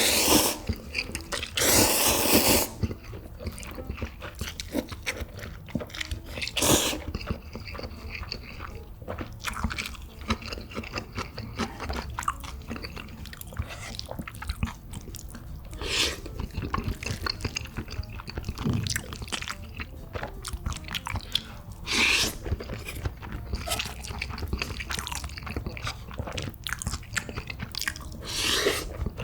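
A person chewing food close to the microphone: soft wet mouth sounds and small clicks of mastication, with a few louder noisy bursts, the longest about two seconds in.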